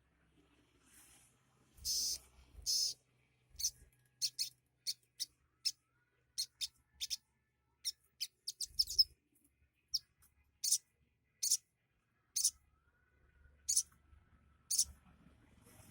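Sogok ontong (spiderhunter) singing a string of short, sharp, high chirps with gaps between them, its song mixing in imitations of other birds such as sparrows and prinias.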